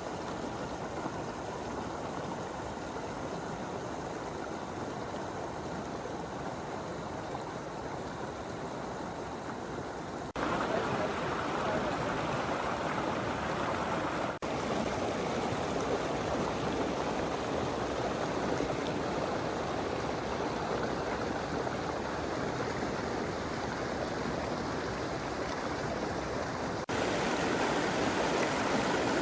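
Steady rush of water pouring over Sopheakmit waterfall's rapids, with no distinct events. It jumps abruptly louder about ten seconds in and again near the end.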